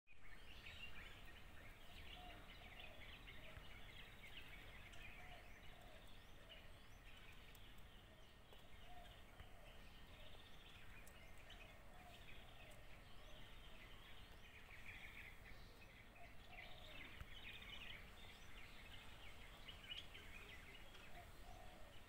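Faint birdsong: continual high chirping and twittering from small birds, with lower short notes now and then.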